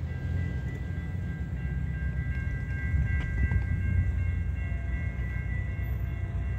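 Metrolink commuter train rumbling out of sight, with steady high-pitched tones above a continuous low rumble.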